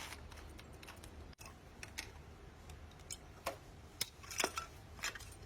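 Irregular light clicks and taps, a handful of them, louder and closer together from about three and a half seconds in, over a faint low hum.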